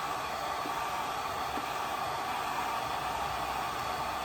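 Hair dryer running steadily and loud, drying wet watercolour paint: an even, airy whir with no change in pitch.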